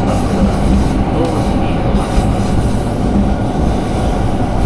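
Passenger train running along the track, heard from inside a carriage: a steady rumble of wheels and running gear on the rails.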